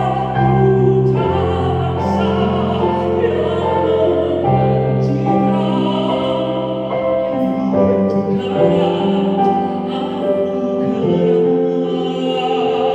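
A man singing a patriotic Indonesian song about the flag, over instrumental backing music.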